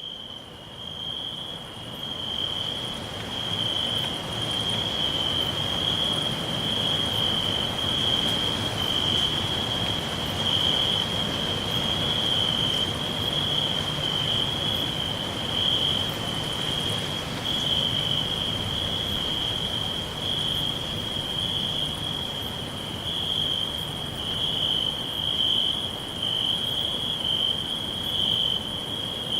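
Crickets chirping in a continuous, high, shrill trill that fades in over the first couple of seconds, over a faint low background hum.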